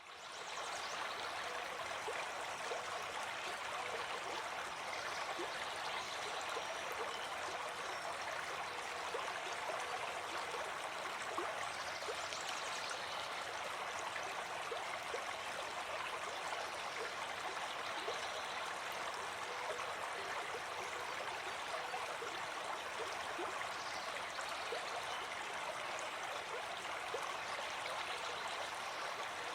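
Running water flowing steadily, fading in at the very start.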